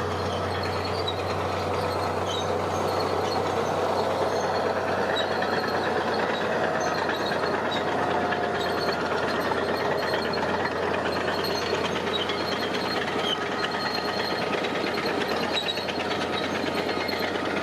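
Heavy construction machinery's diesel engine running steadily under work, with no break or change in level.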